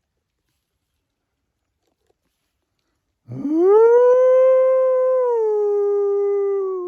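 Imitation wolf howl given as a locator call to draw an answer from wolves: one long call that starts about halfway in, rises sharply, holds steady, then drops a step and carries on to the end.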